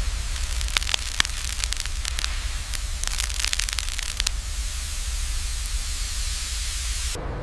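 Molten metal and sparks hissing loudly over a low rumble, with sharp crackling pops through the first half. The hiss cuts off suddenly near the end.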